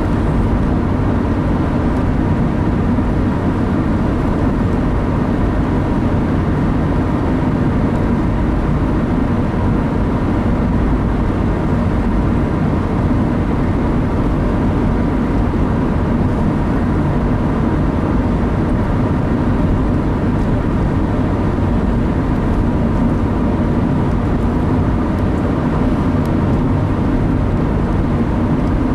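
Steady road and engine noise inside a car's cabin while driving at an even speed.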